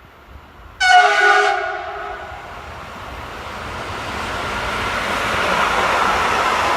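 Train horn sounding one blast of about a second, about a second in, followed by the rumble of the approaching train growing steadily louder.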